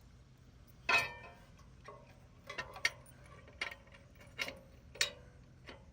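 Irregular sharp clicks and light knocks of small parts being handled during a bumper install, the loudest about a second in and a cluster of smaller ones from halfway on, over a faint steady low hum.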